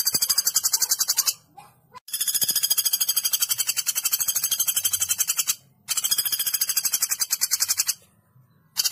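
Woodpecker call from a bird-training recording: a fast, high-pitched rattle of about nine pulses a second, in three long bouts separated by short silent breaks, with a new bout starting at the very end.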